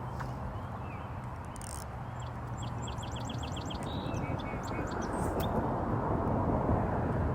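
A bird calling in a quick run of short, high notes, a few more following a moment later, over a steady rushing noise.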